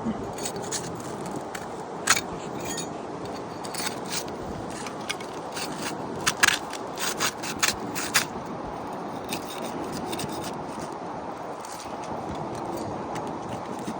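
A hand tool scraping and prying at roof shingles as they are worked loose for a repair, with sharp clicks and scrapes, a quick run of them about six to eight seconds in, over steady background noise.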